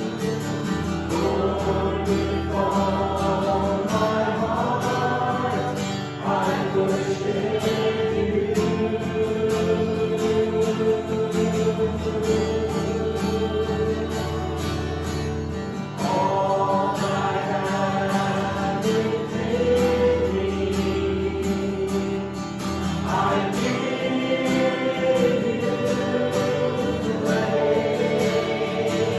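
Worship music: a group of voices singing a slow song with instrumental accompaniment and sustained bass notes.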